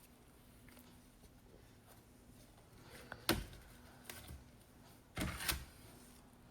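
Handling sounds while unmolding a cured resin piece: one sharp click about three seconds in, then a short cluster of hard knocks near the end.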